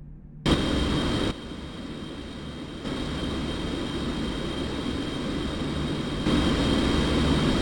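Jet airliner engines running: a steady roar with a thin high whine. The level jumps abruptly up or down several times, as at cuts between clips.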